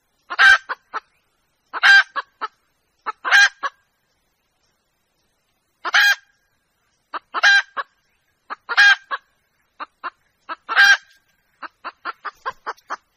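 Young red junglefowl hen calling to a rooster: loud repeated calls about every one and a half seconds, each trailed by a few short clucks, with a pause in the middle and a quick run of short clucks near the end.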